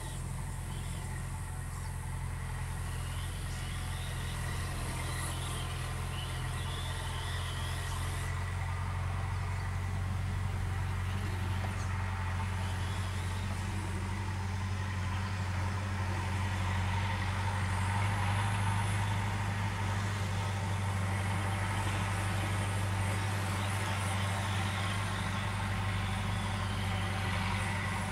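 Steady low mechanical hum with a faint hiss above it, unchanging in pitch.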